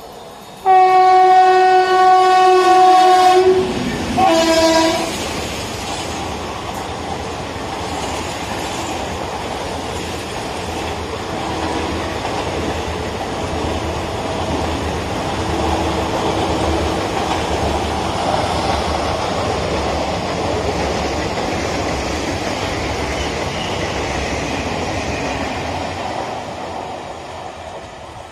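Electric locomotive of an express passenger train sounding its horn, one long blast and then a short one. Then its passenger coaches roll past with a steady rumble and an even clickety-clack of wheels over the rail joints, which fades near the end. The horn is the loudest part.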